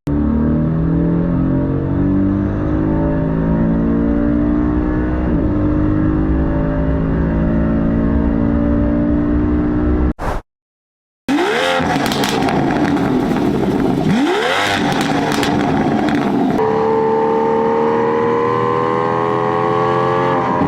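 Porsche 718 GTS engine accelerating, its pitch climbing slowly for about ten seconds. After a sudden break of about a second, an Aston Martin Vantage V12 engine revs twice in quick blips, then pulls with a steadily rising pitch.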